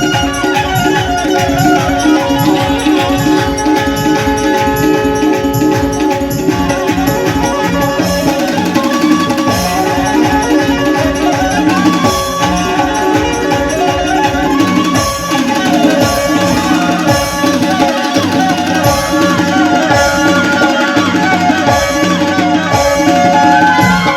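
Banjo playing a melody over a steady tabla-style drum rhythm. The drumming is dense and even at first, and the melody comes forward after about eight seconds.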